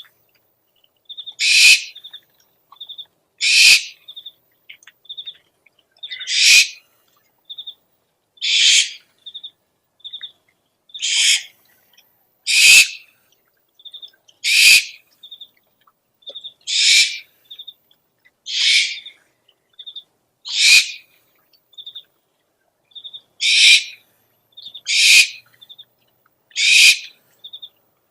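Owl lure recording: an owl gives harsh, hissing screeches about every two seconds, with short high trilled notes between them.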